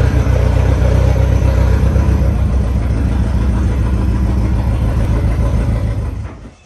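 A motor vehicle's engine running steadily with a low, even rumble, fading out near the end.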